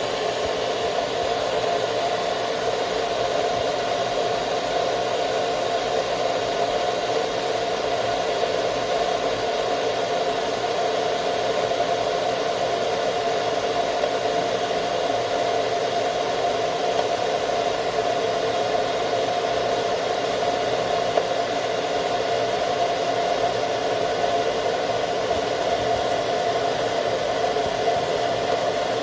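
A 2200 W glass electric kettle heating water toward the boil, with a steady rushing noise that does not change.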